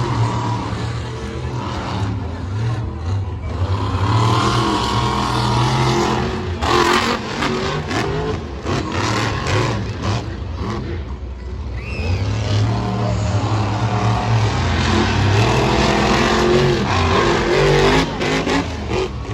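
Monster truck engine revving hard, its pitch rising and falling repeatedly with a brief drop about eleven seconds in.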